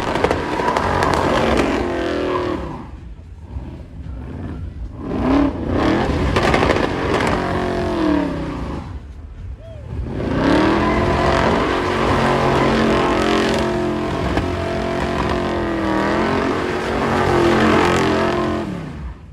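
A car engine revved up and down in three long stretches, its pitch rising and falling, with short lulls about 3 and 9 seconds in.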